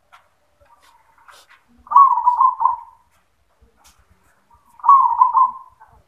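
Zebra dove (perkutut) cooing: two song phrases of about a second each, about three seconds apart, each a quick stuttering run of low coos.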